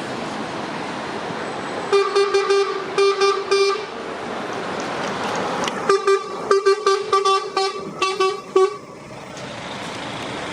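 Lorry horn sounding a run of short rhythmic blasts on one note, two volleys a couple of seconds apart, over a steady hiss of traffic and wind.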